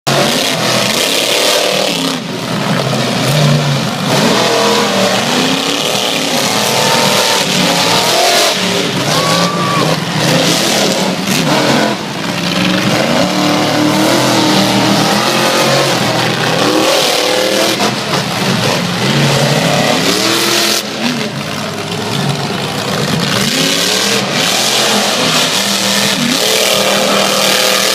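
Two monster truck engines revving hard during a freestyle run, their pitch rising and falling again and again, over a steady hiss of noise.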